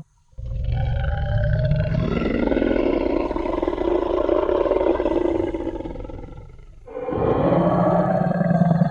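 Designed Tyrannosaurus rex roar sound effect: one long, deep roar lasting about six seconds and fading out, then a second roar starting about seven seconds in.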